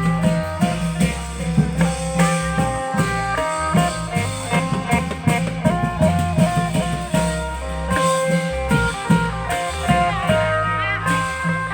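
Thai klong yao band music: a plucked string melody moving in short notes over a steady bass line and a busy drum beat.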